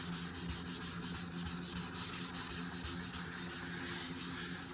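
Drywall being sanded to take out a ridge in dried joint compound on a skim-coated wall: a steady, scratchy rubbing in quick, even strokes, over a low steady hum.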